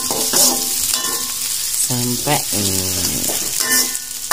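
Chopped shallots, chillies and garlic sizzling in hot oil in an aluminium wok while a metal spatula stirs and scrapes them, sautéing the spice base until it goes soft.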